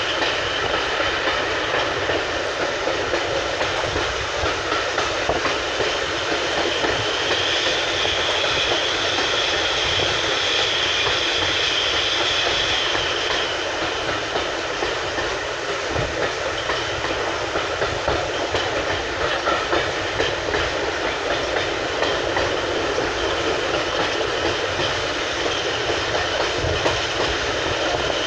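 Heard from inside a heritage railway coach being pushed along by a steam locomotive: the steady rumble and rattle of the coach running on the track, with a few knocks from the wheels. A higher hiss swells for several seconds in the middle.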